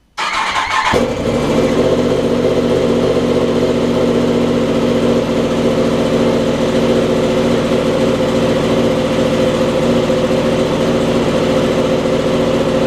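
2016 Yamaha R1M's crossplane inline-four engine, fitted with an Arrow Pro-Race titanium end can, cranked by the starter and catching about a second in, then idling steadily from a cold start.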